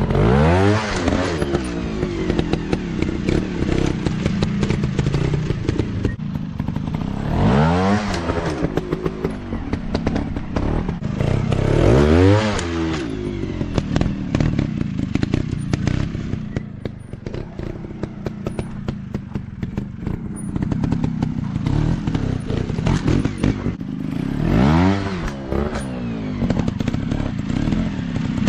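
Dirt bike engines revving hard in four bursts, the pitch sweeping up and dropping back each time, with the engines running steadily between and a constant rough crackle of clicks.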